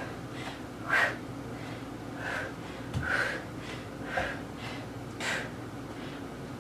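A woman's short, forceful breaths out under exertion, about one a second, in time with a repeated exercise move.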